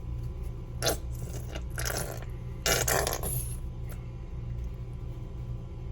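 Squeeze bottle of mustard squirting onto seasoned raw chicken in three short sputtering bursts, about one, two and three seconds in, over a steady low hum.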